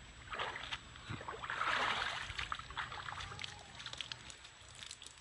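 Water sloshing and splashing, swelling about two seconds in, with scattered small clicks and ticks.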